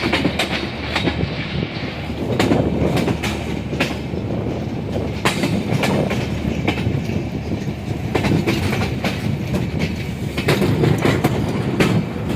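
Train rolling along the rails: a steady rumble with repeated sharp clacks of the wheels over the rail joints.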